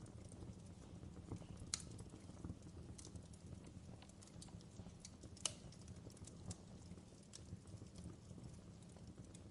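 Fireplace crackling faintly: irregular sharp pops and snaps over a low steady rumble, with the loudest pops about two seconds and five and a half seconds in.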